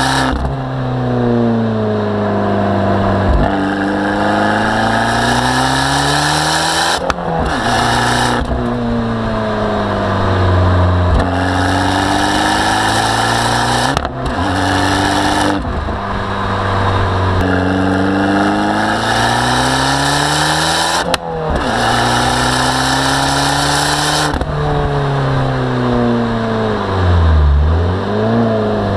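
Abarth 595 Turismo's turbocharged 1.4 T-Jet four-cylinder engine driven hard, its pitch repeatedly dropping and climbing as the car speeds up and slows, with abrupt breaks at gear changes about every few seconds.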